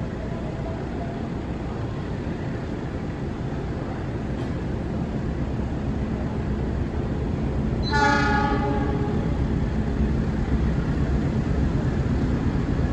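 A train running through the station without stopping: its rumble grows louder as it approaches, it sounds one horn blast of about a second and a half about eight seconds in, and the louder rumble of it passing follows.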